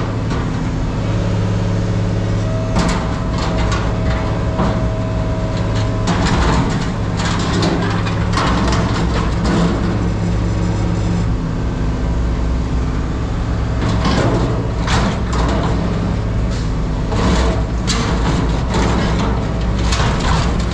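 A heavy diesel engine running steadily under repeated metal clanks and bangs, the sound of scrap metal being handled with yard machinery.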